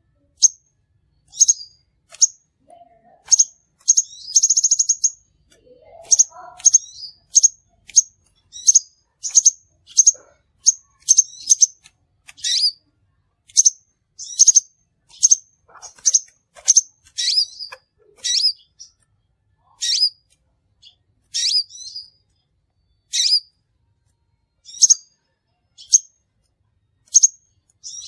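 Crimson sunbird calling: a steady series of short, high, sharp chirps, about one or two a second, with a brief buzzy trill about four seconds in.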